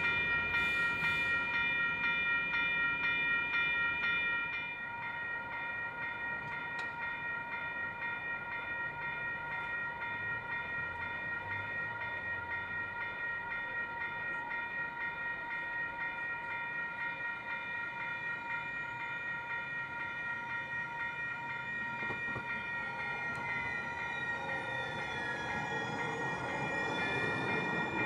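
Train passing at a grade crossing: a steady high ringing of several tones continues throughout, the overall level drops about four and a half seconds in, and high tones slide down in pitch near the end.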